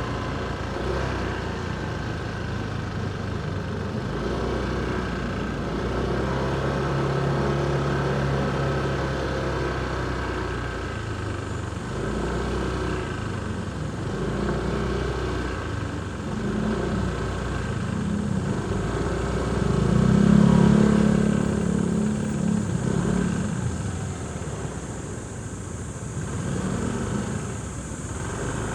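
Motorcycle engine running through city traffic, its pitch rising and falling with the throttle. The loudest swell comes about two-thirds of the way through.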